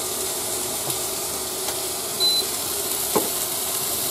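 Sliced onion and bell peppers sizzling steadily in a wok on an induction cooktop, with a short high beep about halfway through and a single knock near the end.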